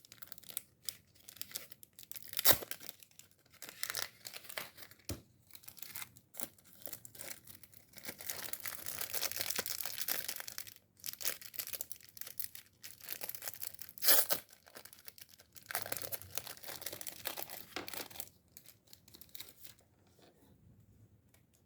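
Plastic packaging being crinkled and torn open, with clicks and small knocks of handling, in bursts with two longer stretches of rustling, the first about eight seconds in and the second about sixteen seconds in.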